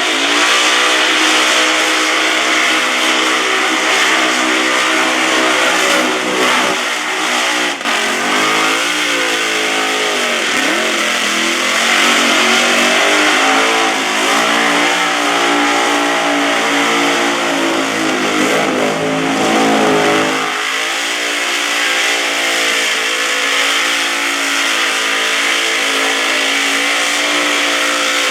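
Supercharged big-block V8 of a burnout car held at high revs, the engine note wavering, dipping and climbing again about a third of the way in and shifting once more past the middle.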